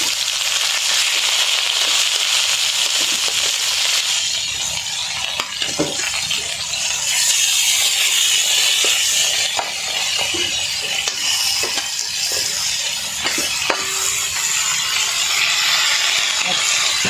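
Eel pieces sizzling in hot oil in a pan with sautéed onion. From about five seconds in there are scattered clinks and scrapes of a utensil stirring.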